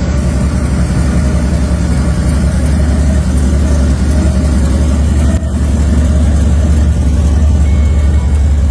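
Car engine idling steadily, loud and low-pitched, with a brief dip about five and a half seconds in; it cuts off suddenly at the end.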